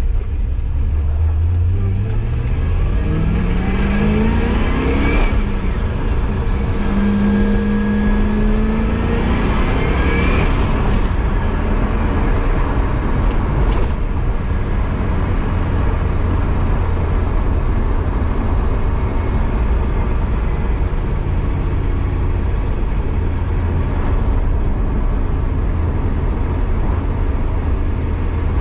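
Turbocharged LS V8 of a C4 Corvette, heard from inside the cabin, accelerating twice in the first ten seconds or so. On each pull the engine pitch rises, and a climbing turbo whistle joins the second pull before it cuts off about eleven seconds in. After that the engine cruises with a steady low drone.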